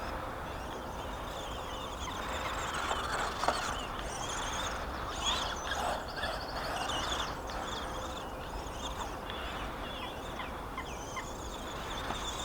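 Small brushed electric motor of a 1/18 RC short-course truck whining as it is driven, rising and falling in pitch with the throttle again and again.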